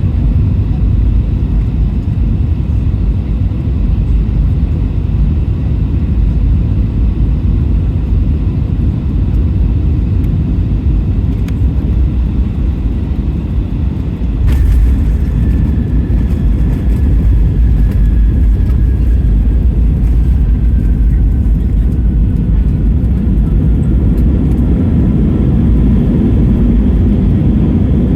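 Airbus A320 cabin noise at a window seat: steady engine and airflow rumble. About halfway through comes a sudden jolt as the main wheels touch down, after which the rumble grows a little louder and a faint whine slowly falls in pitch.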